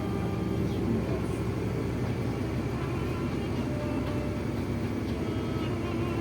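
Steady engine and road drone inside a moving tour bus, with faint duduk music playing over it.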